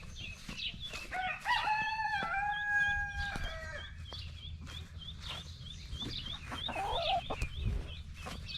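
A rooster crows: one long call, held steady for about two seconds, beginning about a second in. A quick, steady run of high chirps carries on throughout, and a shorter clucking call comes near the end.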